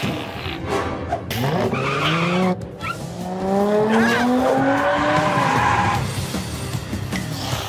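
Cartoon sound effect of a sports car's engine revving up, its pitch rising steadily for several seconds, with tyres skidding, over background music.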